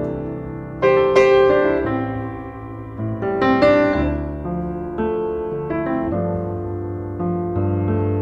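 Slow, gentle solo piano music: notes and chords struck every second or so, each ringing out and fading before the next.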